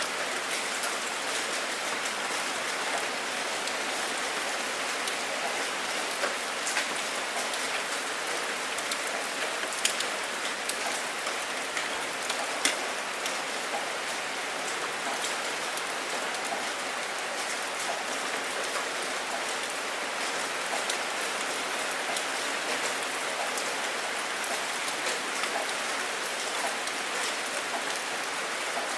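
Steady rain falling, with sharper single drop hits standing out now and then, most clearly about ten seconds in and again a little under thirteen seconds in.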